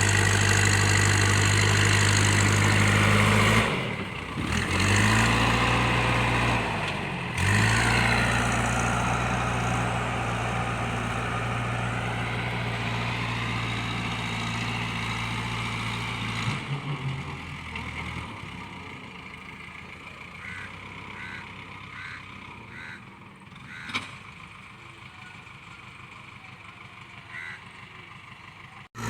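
JCB 3DX backhoe loader's diesel engine running steadily, its pitch sagging and recovering twice in the first several seconds as it takes load. After about 16 seconds the engine sound drops away, leaving a quieter background with one sharp knock near 24 seconds.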